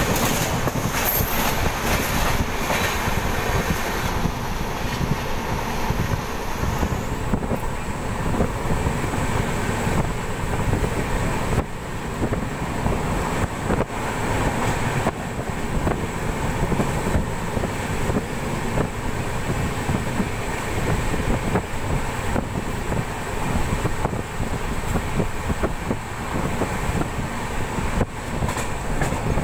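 Steady running noise of an Indian Railways passenger coach on the move, heard from inside at the window: wheels rumbling on the rails, with a few faint clacks.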